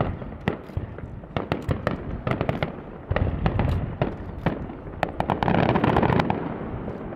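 Fireworks display, with rapid sharp cracks and bangs of bursting shells throughout, thickening into a dense crackling volley about five to six seconds in before easing off.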